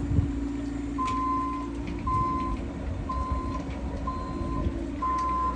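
A piece of earth-moving equipment reversing: its backup alarm beeps about once a second, five half-second beeps, over the steady running of its engine.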